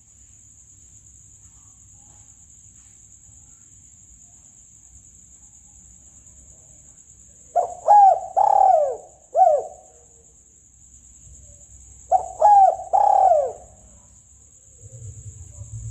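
Spotted dove (tekukur) cooing: two bouts of three or four short coos, each falling in pitch, about eight and twelve seconds in. A steady high-pitched hiss runs underneath.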